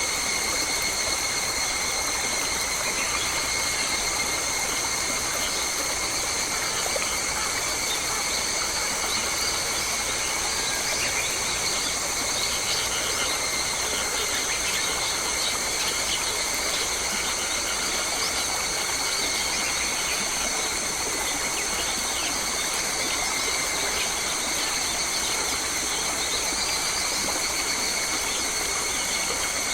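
Forest ambience: a continuous high-pitched drone of several steady tones over a constant hiss, with short bird calls scattered through the middle.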